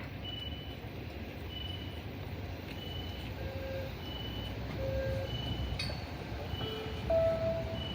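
Steady low rumble of traffic and rail-side background, with a short high electronic beep repeating about once every 1.2 seconds, and a few brief lower tones in the second half.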